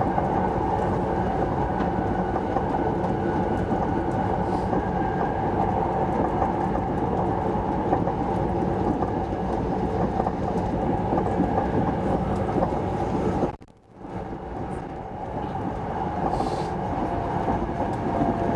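Steady running noise of an SJ 3000 (X55) electric multiple-unit train travelling at speed, heard from inside the passenger car. About 14 seconds in the sound drops away suddenly for a moment, then builds back over a couple of seconds.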